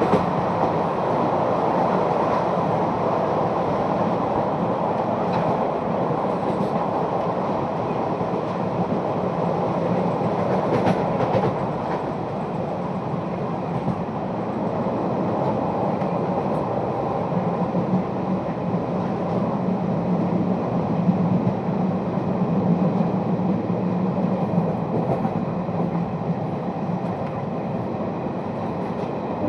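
Train running steadily along the track: a continuous rumble and rattle, with a few faint clicks.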